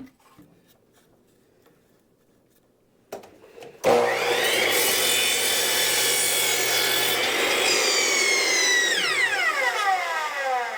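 Electric miter saw starting about four seconds in, its motor whining steadily while the blade cuts through a wooden branch. Near the end the saw is switched off and the whine falls away as the blade spins down.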